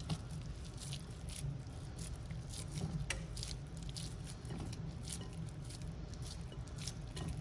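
Soft sticky squishes and small wet smacks, irregular and close, as hands wrap raw bacon strips around stuffed sweet peppers, over a steady low hum.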